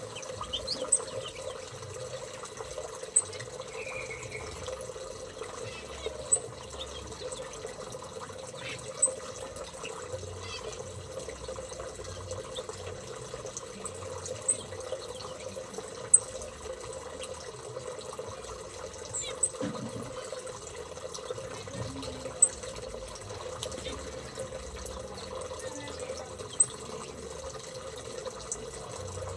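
A small cage bird giving short, high, sharp chirps, one every few seconds, over a steady trickling hiss like running water.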